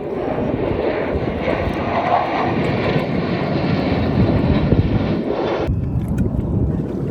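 Aircraft passing overhead: loud engine noise that builds over several seconds, then cuts off abruptly near the end.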